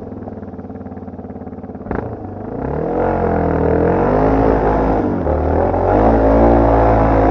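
Dirt bike engine idling steadily, a sharp click about two seconds in, then the engine revs up and pulls away, its pitch rising and falling with the throttle.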